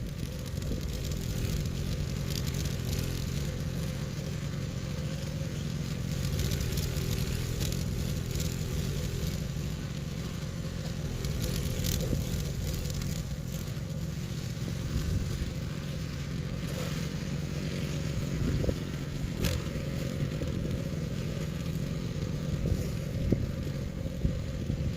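An engine running steadily at a constant pitch, with irregular scraping and crackling over it.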